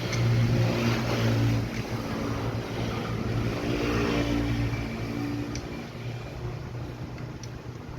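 A motor or engine running steadily with a low hum that shifts slightly in pitch and level.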